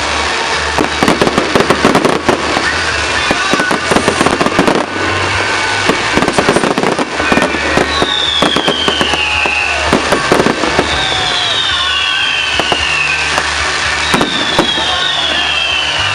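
Fireworks going off: a rapid run of cracks and bangs, then several whistling fireworks, each with a falling whistle, in the second half.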